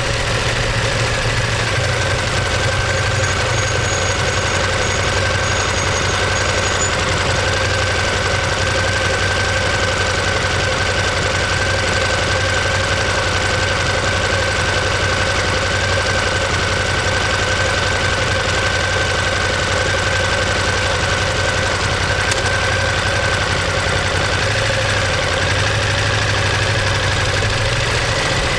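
Ducati Monster 1200S L-twin engine and exhaust running steadily at an even, unchanging engine speed, with no revving.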